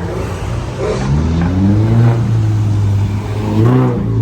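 Car engine revving: the pitch climbs about a second in and holds, then rises again in a short blip near the end.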